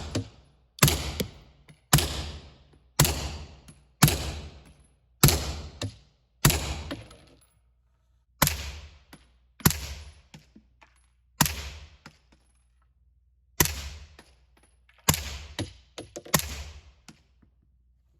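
A 9mm B&T APC9 Pro firing semi-automatic single shots: about a dozen sharp reports, each with a short echoing tail. They come about one a second at first, then further apart.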